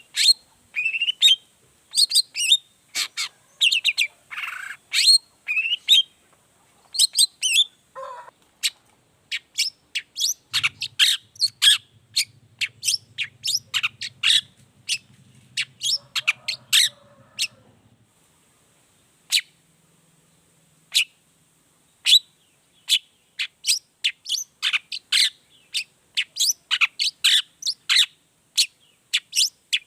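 Long-tailed shrike (cendet) calling in rapid series of short, sharp notes, with a brief pause about two-thirds of the way through. It is a lure recording meant to set caged shrikes singing.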